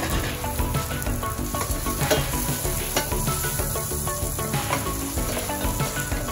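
Sliced ginger, garlic and red onion sizzling as they fry in a stainless steel pot, stirred with a wooden spatula in the second half.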